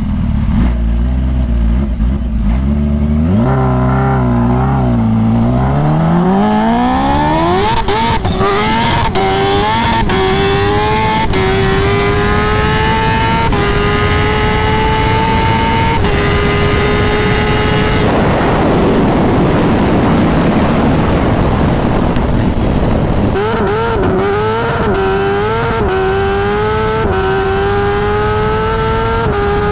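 Kawasaki Ninja H2's supercharged inline-four under full-throttle acceleration. The revs climb steeply from a low rumble, then the pitch drops and rises again with each quick upshift. Past the middle a stretch of wind rush drowns the engine, and near the end the revs climb again through several more shifts.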